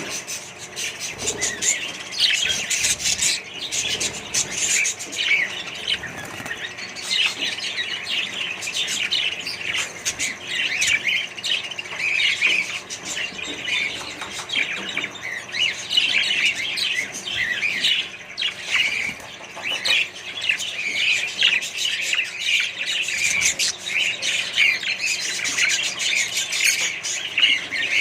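A flock of budgerigars and other parrots chirping and chattering all at once, many birds calling over each other without pause, with occasional squawks.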